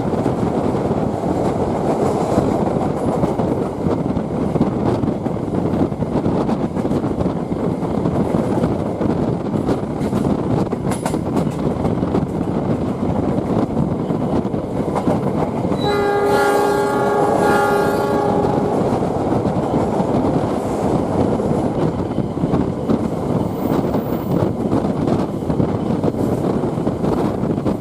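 Passenger train running on the rails, heard from aboard: a steady rumble with wheel clatter. About two-thirds of the way through, the locomotive's horn sounds once for about two and a half seconds.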